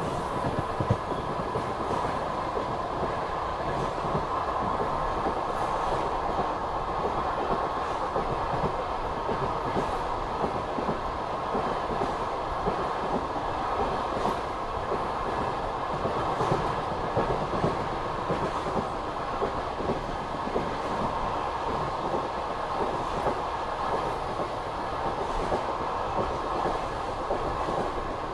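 Passenger train coaches running at speed: a steady rumble of steel wheels on the rails with the clatter of wheels over the track.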